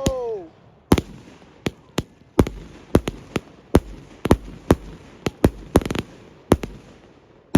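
Fireworks going off all around: more than a dozen sharp bangs at uneven intervals, some close and loud, others farther off, with a loud report near the end.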